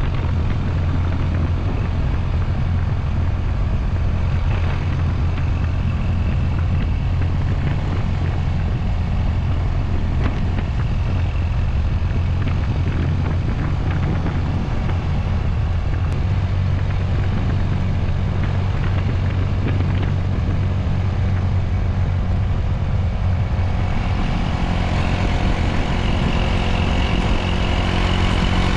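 Honda Super Cub 110's small single-cylinder engine running steadily on the road, under a constant haze of road and wind noise. From about three-quarters of the way in, a clearer, higher engine note comes in.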